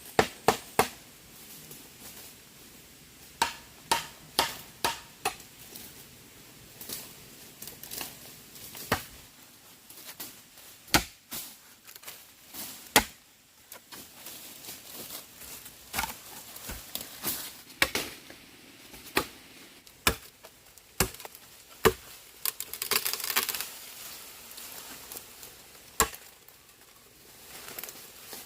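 A hand tool striking wood in irregular sharp knocks, mostly a second or more apart, as in chopping or hammering timber. A rustling, scraping burst comes about two-thirds of the way through.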